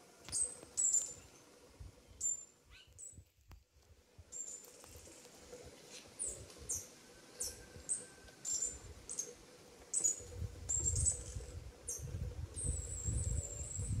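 Small birds chirping: short, very high chirps, some falling in pitch, repeated irregularly, with a quick high trill near the end. A low rumble runs under the last few seconds.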